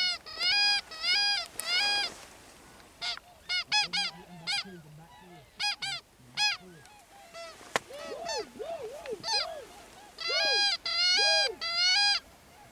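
Swan calling in the style of tundra swans: loud, high whooping honks in quick runs of two to four notes near the start, in the middle and again near the end, with fainter calls in between. The loud runs are most likely a hunter blowing a swan call to draw the flock in close.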